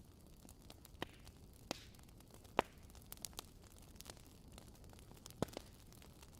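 Wood fire crackling in a fireplace: irregular sharp pops and snaps, the loudest about two and a half seconds in, over a faint steady hiss.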